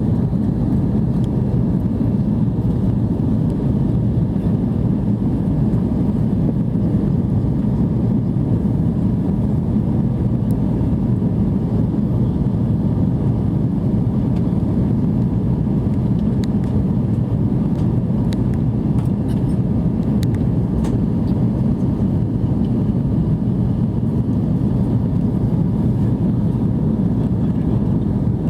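Steady low rumble of a Cathay Pacific Airbus A330-300 heard from the passenger cabin, its engines and airflow running evenly.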